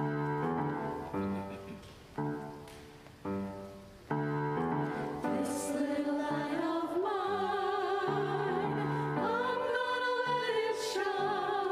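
Piano music: spaced chords that fade, then a fuller, steady accompaniment from about four seconds in. A voice enters a couple of seconds later, singing long notes with vibrato.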